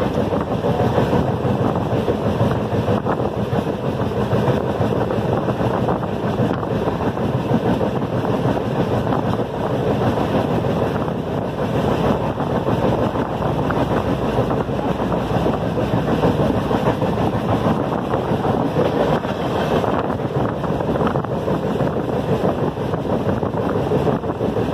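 Steady running noise of a moving train heard from the carriage window: the wheels running on the rails, mixed with rushing air at the window.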